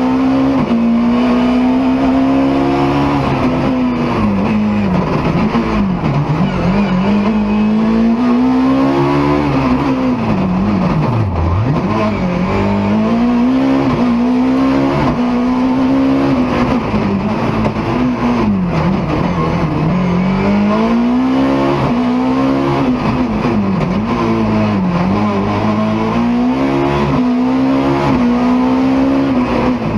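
BMW E30 M3 rally car's four-cylinder engine at racing pace, revving up hard and falling back again and again as it is pushed through the gears and lifts for corners, with the deepest drops about six, eleven, nineteen and twenty-five seconds in.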